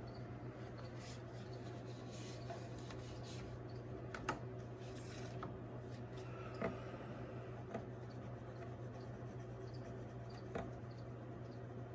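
Crickets chirping faintly in short, evenly spaced chirps, with scratchy rustling and a few sharp clicks over a steady low hum.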